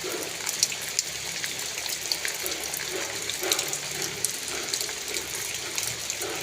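Heavy rain: a steady rush of pouring, gushing water with many scattered sharp drips and splashes.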